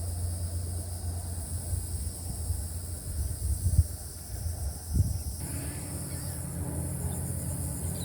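Birds calling from about halfway in, over a steady low rumble.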